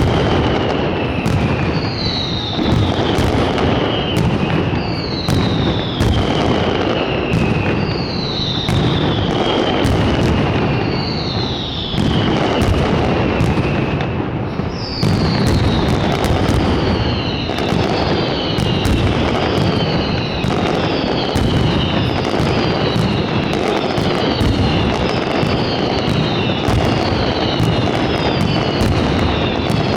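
Fireworks barrage: a dense, continuous run of bangs and crackling, with whistles that fall in pitch over and over. About halfway through the whistles come faster and overlap.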